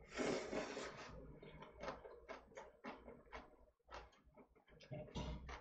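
A person eating: a short noisy slurp as the bite goes into the mouth, then chewing with wet mouth clicks, a few a second, and another slurp near the end.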